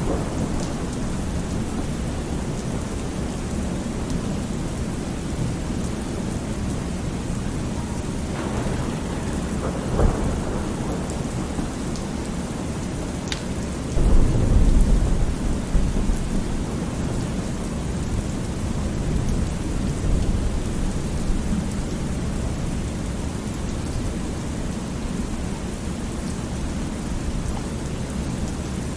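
Thunderstorm: steady heavy rain with thunder. There is a sharp crack about ten seconds in, then a loud low rumble about fourteen seconds in that dies away over a couple of seconds.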